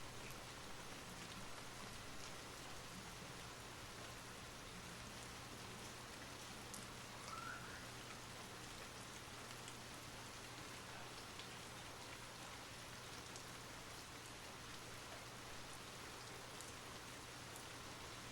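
Steady soft rain: an even hiss with fine scattered drop ticks. A brief faint rising chirp comes about seven seconds in.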